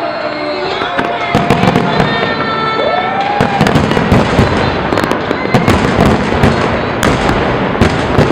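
New Year fireworks display: dense crackling and sharp pops from bursting shells, thickening about a second in and going on as a rapid string of bangs and crackles.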